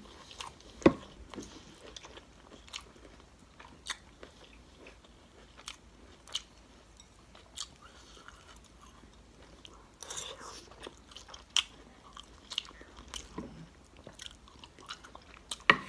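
Close-miked chewing and wet mouth sounds of a person eating orange shrimp and lo mein noodles, with scattered sharp clicks and a short louder stretch about ten seconds in.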